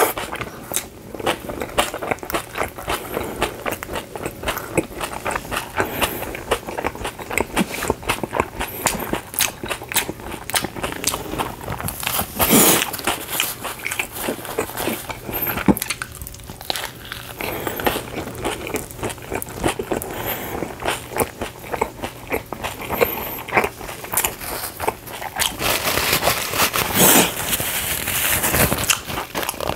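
A person biting and chewing pizza with its crust, a dense run of irregular crunchy, wet clicks. Near the end, a paper napkin crinkles as it is rubbed over the mouth.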